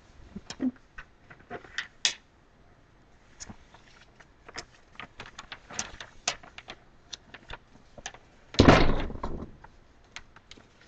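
A sheet of paper being folded and creased by hand into a paper airplane: scattered crinkles and sharp crackles, with one louder, longer rub of paper about three-quarters of the way through.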